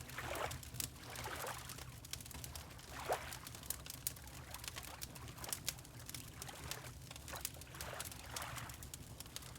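Fireplace wood fire crackling with many small sharp pops, over water lapping in several soft, irregular swells, with a steady low rumble beneath.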